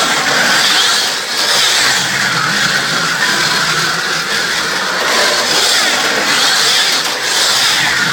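1/43 scale slot cars running on a Carrera Go plastic track: small electric motors and gears whining, with the pitch swelling and dipping every second or so as the cars are throttled through the corners and straights.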